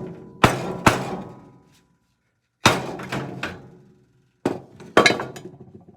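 A hammer strikes a thin flat screwdriver, used as a punch, against a pressed-in part of a miter saw: five sharp metallic knocks, each with a short ringing decay, in a pair, then a single one, then another pair. The part is not budging.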